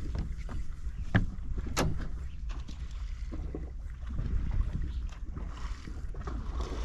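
Wind rumbling on the microphone over water, with a few scattered sharp clicks.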